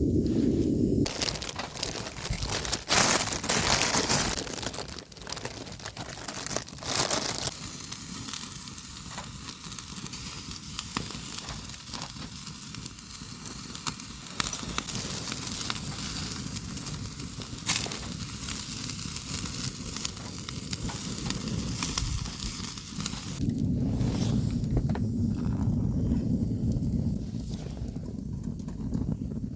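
Food sizzling over high heat, a dense hiss full of small crackles and pops that starts about a second in and gives way to a lower, steadier sound about six seconds before the end.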